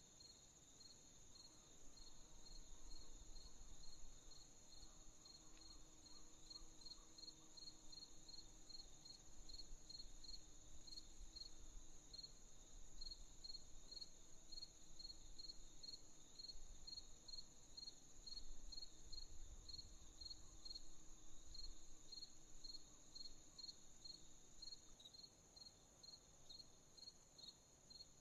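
Night crickets chirping: an even rhythm of about two chirps a second over a continuous high insect trill, faint.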